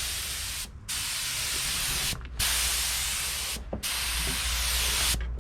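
Air-fed paint spray gun hissing in repeated passes of about a second and a half, cut off briefly each time the trigger is released, over a steady low hum.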